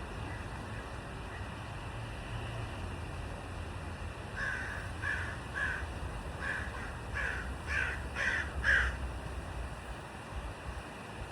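A bird calling: a run of about nine short calls, roughly two a second, starting about four seconds in and growing louder toward the end.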